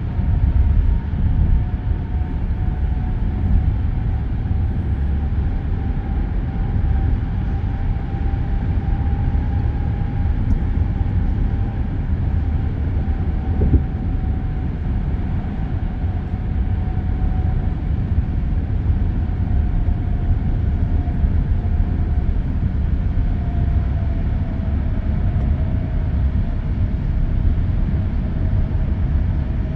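Steady low rumble of expressway traffic and tyre noise, with a faint whine that slowly falls in pitch.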